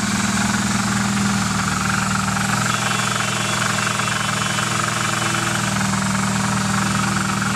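Nissan 240SX's KA24DE inline-four engine idling steadily, with a fast, even ticking knock running through it; the owner cannot tell what the noise is.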